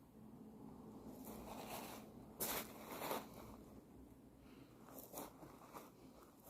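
A few faint, short rustling or scraping strokes, spaced irregularly, the clearest about two and a half seconds in and a cluster around five seconds in.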